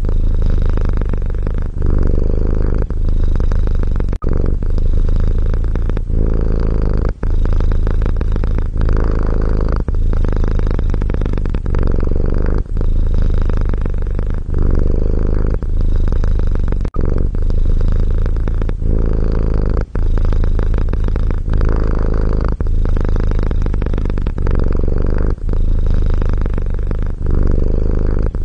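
Domestic cat purring steadily and close up, the low rumble swelling and dipping with each breath in and out, about one cycle a second.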